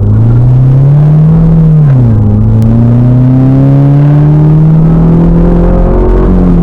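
2008 Chevrolet Cobalt's four-cylinder engine accelerating through the gears of its manual gearbox. The pitch climbs, drops at an upshift about two seconds in, then climbs more slowly through the next gear until another shift near the end.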